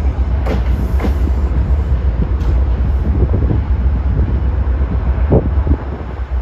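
MBTA commuter rail train rolling out over the station tracks: a steady low rumble with a few sharp clacks as the wheels cross rail joints.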